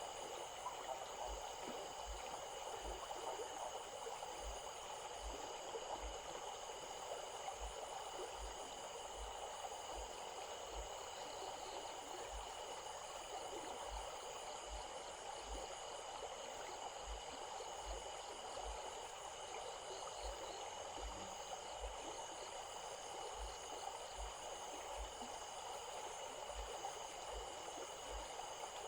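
Stream flowing steadily, an even rushing and gurgling of water, with faint steady high-pitched tones above it.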